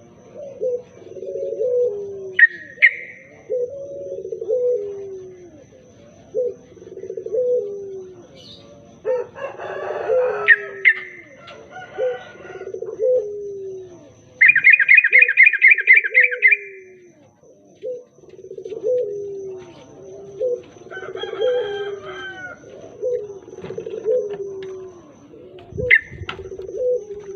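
Birdsong: a steady run of low, falling cooing calls about once a second, with a few sharp higher chirps and a rapid bright trill lasting about two seconds midway.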